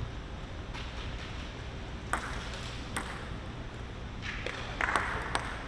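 Table tennis ball clicking sharply off paddle and table about half a dozen times at uneven intervals, over the steady low hum of the hall.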